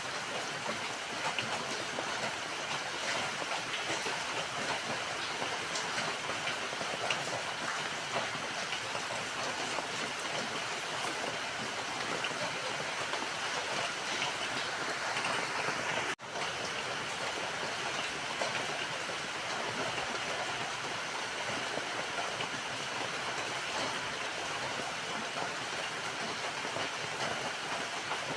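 Steady rainfall, an even hiss with scattered ticks of individual drops. The sound cuts out for an instant a little past halfway, then resumes unchanged.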